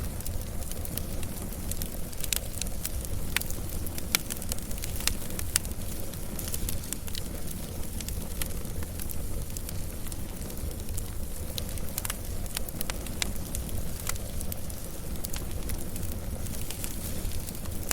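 Wood fire crackling, with sharp scattered pops and snaps over a low steady rumble; the pops come thickest in the first few seconds and again about twelve seconds in.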